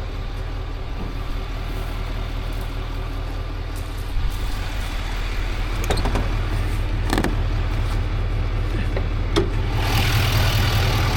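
A vehicle engine idling steadily, with a few sharp clicks and knocks partway through and a rise in hiss near the end.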